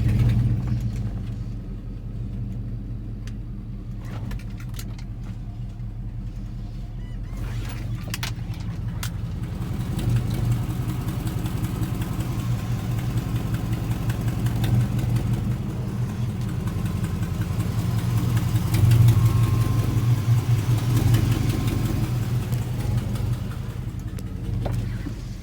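A vehicle engine running steadily with a low hum, getting a little louder about ten seconds in and again near nineteen seconds, with a few sharp clicks around eight seconds in.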